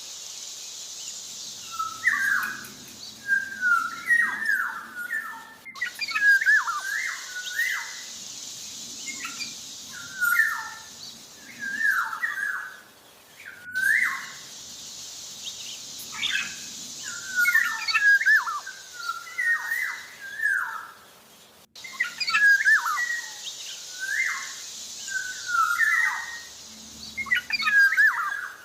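Black-naped oriole (Javan kepodang) singing busily: short fluty whistled phrases repeated one to two times a second, over a steady high hiss.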